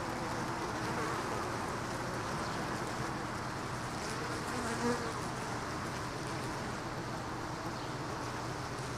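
Honey bees buzzing steadily around an open hive, with a short louder buzz about five seconds in.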